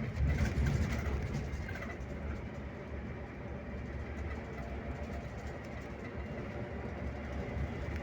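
Scania K360IB touring bus on the road: a steady low engine drone with road noise, a little louder in the first second or so.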